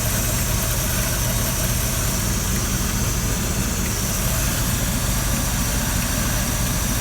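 Carbureted 350 cubic-inch (5.7 L) V8 of a 1983 GMC K1500 Sierra idling steadily.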